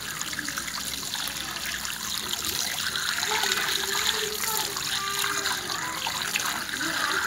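Water trickling and splashing steadily, with scattered small clicks.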